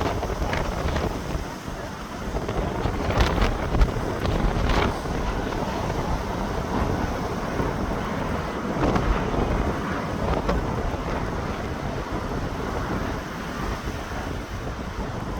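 Strong wind buffeting the microphone: a continuous rumbling rush with gusts that swell and fall, strongest about three to five seconds in and again near nine seconds.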